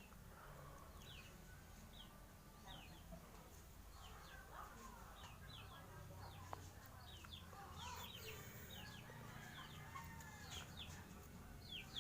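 Faint bird chirping: many short, high, falling notes repeated throughout, with some lower calls underneath.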